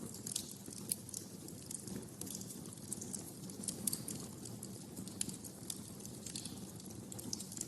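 Wood fire crackling in a fireplace: irregular sharp pops and snaps over the steady low rumble of the burning logs.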